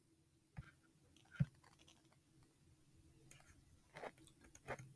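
A few faint, scattered clicks over a quiet background hum, the loudest about a second and a half in.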